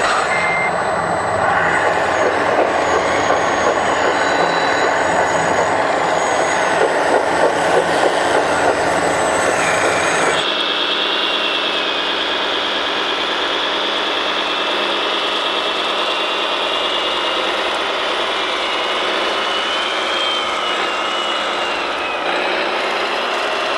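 Radio-controlled hydraulic construction models running: small electric motors, gearing and hydraulic pumps whining, with a fluttering, rattly mix for the first ten seconds or so. It then cuts abruptly to a steadier run with a high whine that wavers in pitch.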